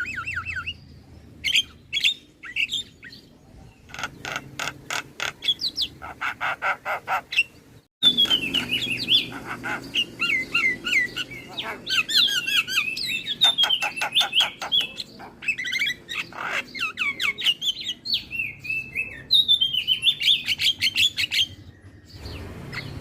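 Javan myna (jalak kebo) singing a varied song of chirps, whistled phrases and rapid strings of repeated notes, busiest in the second half. A low steady hum runs underneath.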